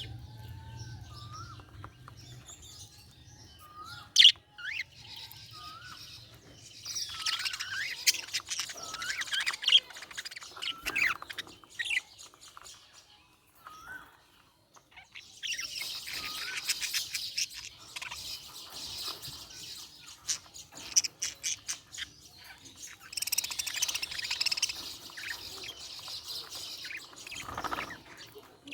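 Budgie chirping and warbling: short rising whistle notes at first, then bursts of rapid chattering chirps, with a brief lull about halfway through.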